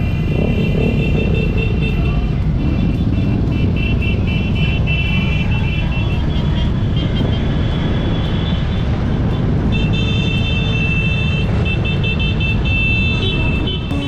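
A mass of motorcycle engines running together in a steady rumble, with horns tooting on and off above it.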